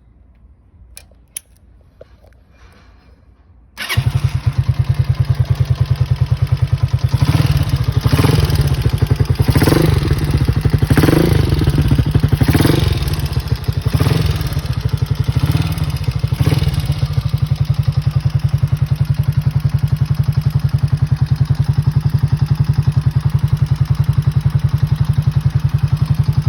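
Honda CG125's single-cylinder four-stroke engine starting suddenly after a few seconds of faint clicks. The throttle is blipped several times in quick surges, then the engine settles into a steady idle.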